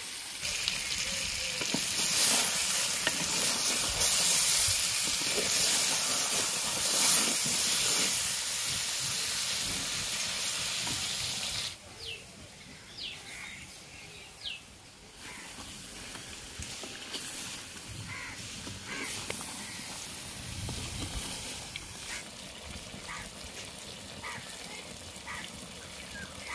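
Whole raw mangoes frying in hot mustard oil in a clay pot, sizzling loudly as their water cooks off, while they are stirred with a wooden spatula. About twelve seconds in the sizzle cuts off abruptly, leaving a much quieter stretch with faint short chirps.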